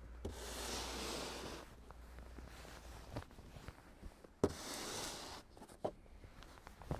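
Footsteps crunching in fresh snow: two drawn-out rasping crunches, one near the start and one about four and a half seconds in, with a few sharp knocks between.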